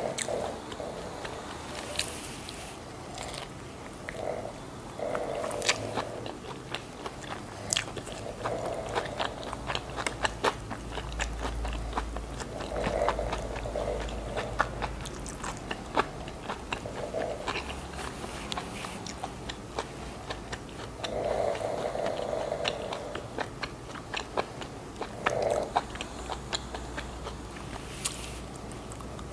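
Close-miked chewing and biting of a Vietnamese fresh spring roll of rice paper, shrimp and lettuce: wet mouth clicks and soft crunching, on and off throughout.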